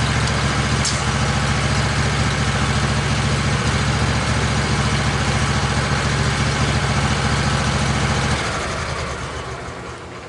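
Wood-Mizer LT15 sawmill's engine idling steadily, then shut off about eight seconds in and running down to a stop.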